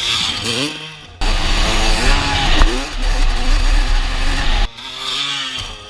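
Honda CR250R single-cylinder two-stroke motocross engine revving under riding, its pitch climbing and dropping with the throttle. It gets suddenly louder and rougher about a second in, then eases to a lower, steadier note near the end.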